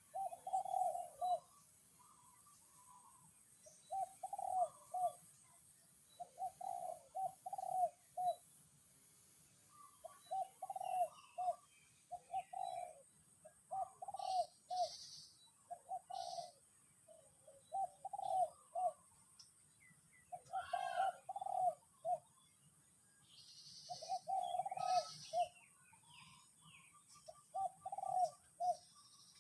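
A bird cooing over and over in short phrases of a few low notes, every couple of seconds. A few brief higher chirps from other birds come in now and then, over a faint steady high hiss.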